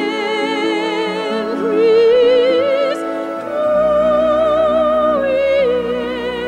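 Operatic singing voice holding long notes with a wide vibrato over a sustained instrumental accompaniment.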